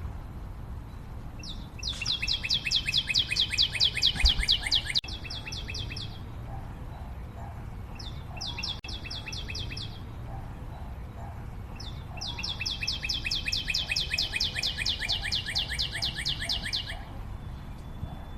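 A bird singing a rapid, buzzy trill, three bouts of fast repeated high notes with short pauses between, over steady background noise.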